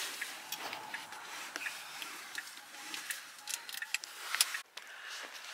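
Scattered light clicks and knocks, several a second at irregular intervals, over a faint background hiss.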